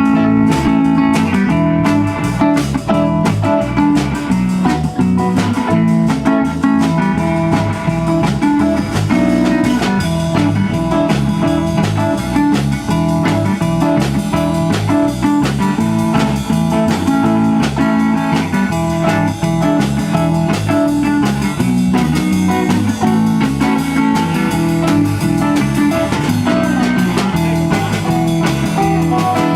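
Band music in a blues style: guitar to the fore, with bass and a drum kit.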